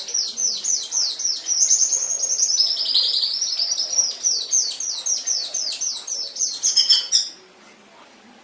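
Domestic canary singing a long song of rapid, repeated down-slurred notes, about four a second, dipping lower for a moment in the middle and stopping abruptly about seven seconds in.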